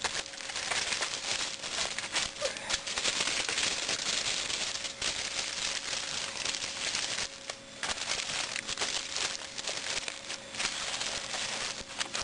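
Aluminium foil being crumpled, folded and crimped by hand around a foil-packet meal, a continuous crinkling with many small crackles and a brief pause partway through.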